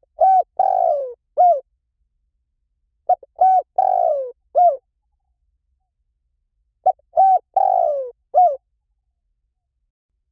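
Spotted dove cooing: three matching phrases about three and a half seconds apart, each of four coos, the third longest and sliding down in pitch.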